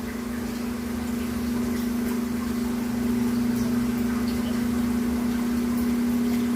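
Steady low hum of a small motor running, with a few faint clicks.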